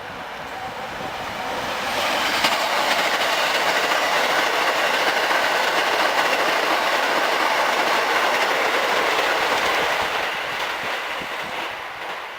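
Hankyu 9300 series eight-car electric train passing through a station at speed without stopping: wheels running on the rails with a clickety-clack, building over the first two seconds, holding loud for about eight seconds, then fading away.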